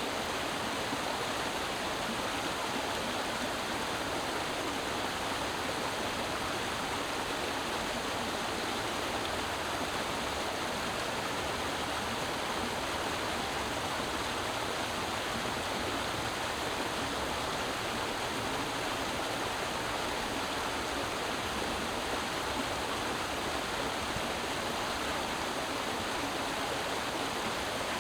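Creek water flowing and splashing over rocks, a steady, even rush with no breaks.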